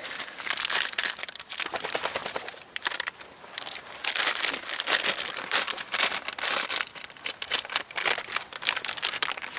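Plastic packaging crinkling and rustling in irregular bursts as a bag of barley is handled.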